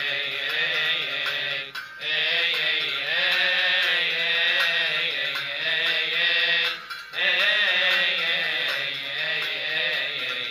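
A man chanting a Coptic Tasbeha hymn solo in long, melismatic phrases. The voice pauses briefly for breath about two seconds in and again about seven seconds in.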